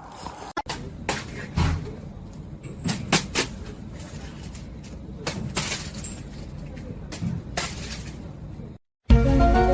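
A series of irregular sharp knocks and clatters over a low rumble, with music starting near the end.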